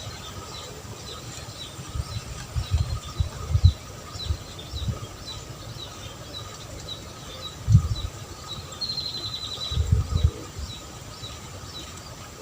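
A bird calling in short chirps repeated about twice a second, with a brief rapid trill about nine seconds in, over a faint steady hum. Several dull low thumps, the loudest sounds, come in clusters around two to four seconds in and again around eight and ten seconds in.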